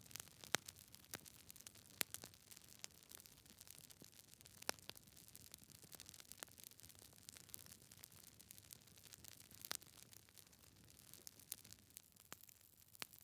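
Wood fire burning in a fireplace, crackling quietly: irregular sharp snaps and pops from the burning logs over a faint hiss.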